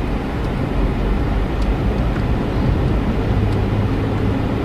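Steady low rumble of the Mazda 3's 1.5-litre four-cylinder engine idling, heard from inside the cabin. A few faint clicks from the infotainment control knob come through as the menu is scrolled.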